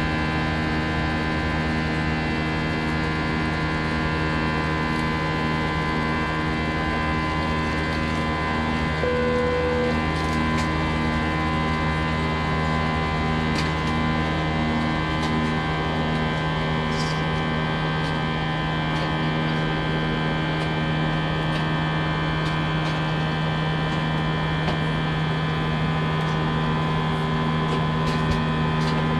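Steady in-flight cabin drone of an Airbus A319, heard from the front row: a constant hum made of several steady tones, with a slow pulsing in the hum and a brief extra tone about nine seconds in.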